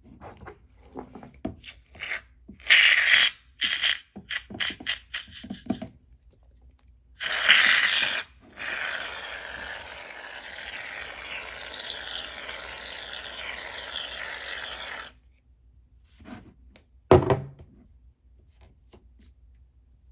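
Shaving-foam slime being squished and pressed by hand: clusters of sticky crackles and pops, a steady hissing stretch of about six seconds in the middle, and one sharp thunk near the end.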